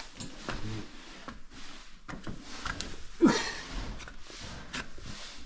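Scattered light knocks and clicks of things being handled, with one louder short squeak-like scrape about three seconds in.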